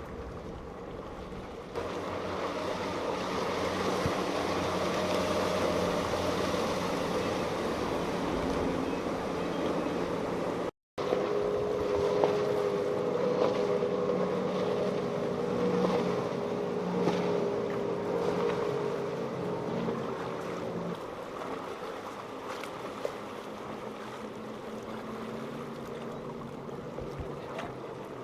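Motorboat engines running steadily over wind noise on the microphone and the wash of rough water. The engine drone eases off after about twenty seconds, and the sound cuts out for a moment about eleven seconds in.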